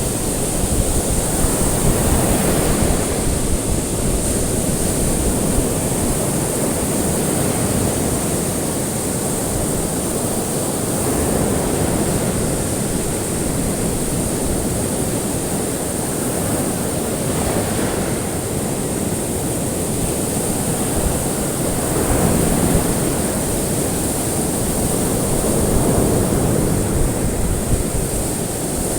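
Ocean waves washing onto a shore, a steady rush of surf that swells and eases every few seconds, over a constant high hiss.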